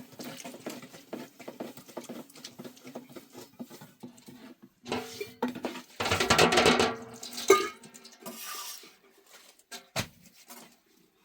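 Dishes, pots and utensils clinking and clattering as they are handled, with a louder, longer burst of clatter about five to seven seconds in.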